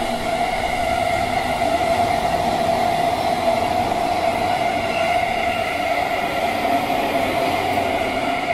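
Ueno-Tokyo Line electric commuter train running past along the tracks: continuous rolling rumble with a steady high-pitched whine.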